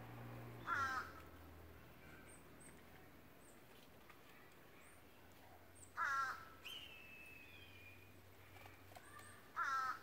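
A bird calling three times: short, loud calls about a second in, six seconds in and near the end. Faint high chips and a thin whistle from small birds come between them.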